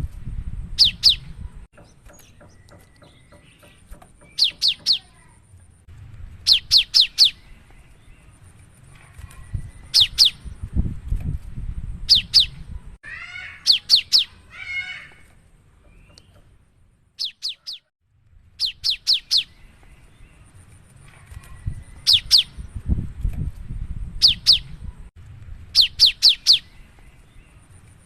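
Cinereous tit (gelatik batu) singing: repeated bursts of two to four sharp, high notes every second or two, with a brief warbling phrase about halfway through.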